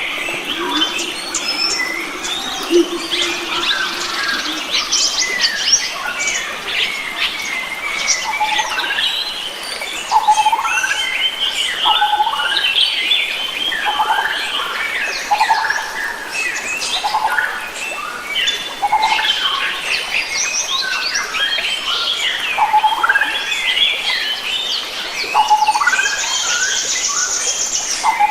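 A chorus of several wild forest birds chirping and calling over one another, one of them repeating a short lower note every second or two, with a high buzzy trill near the end.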